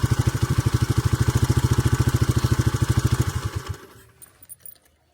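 Honda XL250S single-cylinder four-stroke engine idling with an even, rapid beat, then switched off about three and a half seconds in and stopping at once. By ear the tappet clearance is judged fine: no problem in the sound.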